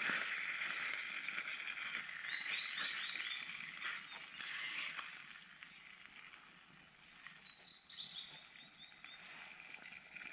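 A bird calling twice, each time a quick run of high chirps stepping down in pitch, lasting about a second, over a steady high hiss that fades out about halfway through.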